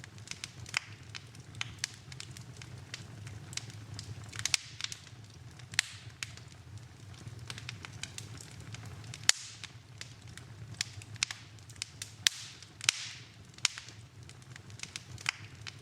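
Wood fire burning in a fireplace: irregular sharp crackles and pops over a low steady rumble, with a few short hisses. The loudest pop comes a little past halfway.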